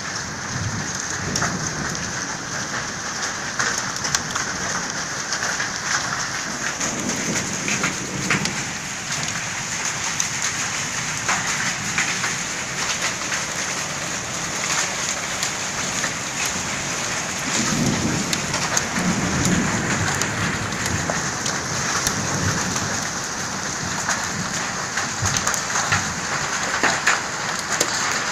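Heavy rain pouring steadily, with a dense hiss and many sharp drips and spatters on hard surfaces. Low rumbles of thunder swell under it, the strongest a little past the middle.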